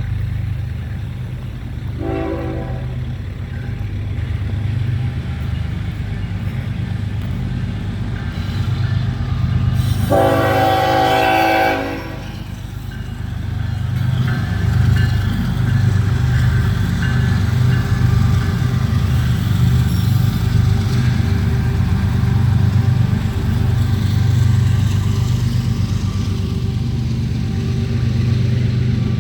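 Florida East Coast Railway train passing with a loud diesel rumble. Its horn sounds a short blast about two seconds in and a longer blast about ten seconds in. Then the train rolls by with a steady rumble and the rhythmic clatter of its wheels.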